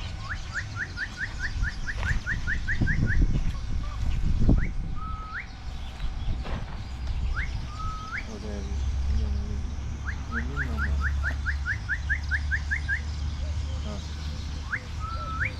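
High whistled notes: a run of about ten quick rising chirps, about four a second, then single swooping two-part whistles, then a second run of about ten chirps and one more swooping whistle near the end.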